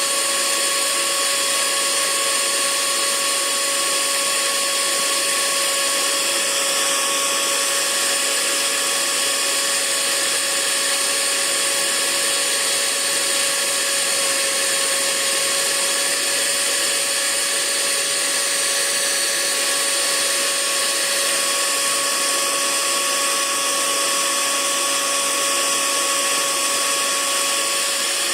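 Hair dryer running steadily: a continuous airy hiss with a fixed motor whine.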